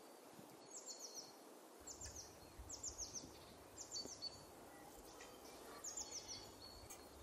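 A small bird chirping faintly and repeatedly, short runs of three or four quick high falling notes about once a second.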